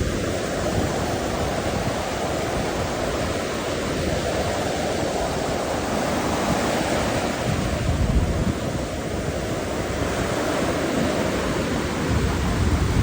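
Steady rushing of surf and wind at the shore, with low gusts buffeting the microphone at the start, about eight seconds in, and near the end.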